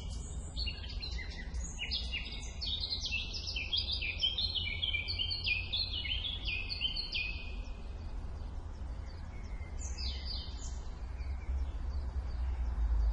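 Songbirds chirping and trilling, many short calls overlapping, thinning out after about seven seconds, over a steady low rumble.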